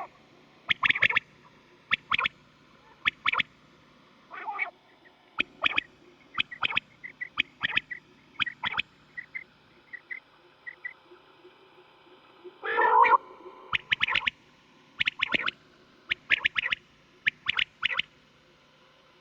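Quail calling from a recording: short, sharp calls repeated in quick pairs and triplets about once a second. A longer, lower call comes twice, about four seconds in and again near thirteen seconds. The calling stops shortly before the end.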